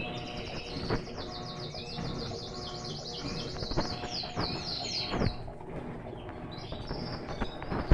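A songbird singing a fast trill of high, evenly repeated chirps for about five seconds, ending in a few quick downward-sliding notes. Under it there is a low steady hum and a few soft knocks.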